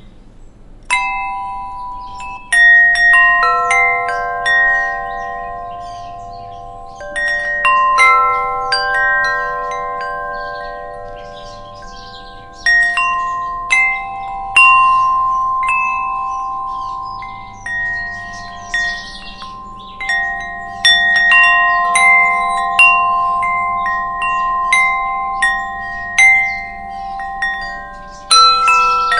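Wind chimes stirred by the wind, struck at irregular moments from about a second in. Several tuned tones ring on and overlap one another.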